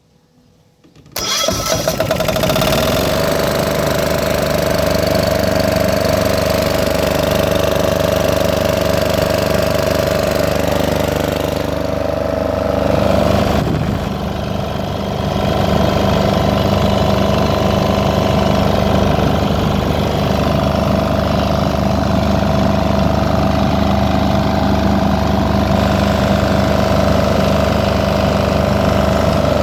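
Generator engine starting abruptly about a second in, its pitch settling within a second or two, then running steadily. Around halfway through its note dips briefly and changes, then holds steady again.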